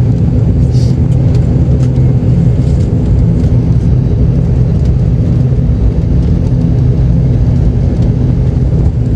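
ATR 72's twin turboprop engines and propellers running after landing, a loud steady drone with a low hum of several held tones.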